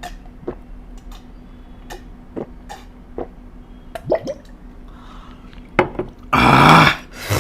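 Someone eating: scattered small wet clicks and smacks of mouth and food. Near the end come two loud, hissy bursts, the first about half a second long.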